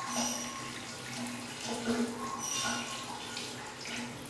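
Water falling and splashing, with a faint buzzing tone that keeps breaking off and coming back.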